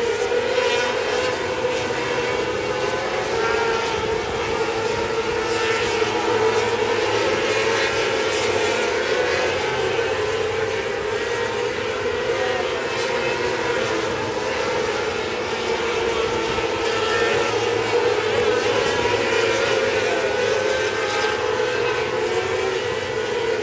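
Winged race car engines running hard during a feature race: a loud, unbroken drone whose pitch wavers slightly up and down.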